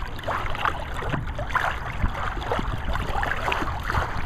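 Water splashing and lapping irregularly against the hull of a Lido 14 sailing dinghy under way, over a steady low wind rumble on the microphone.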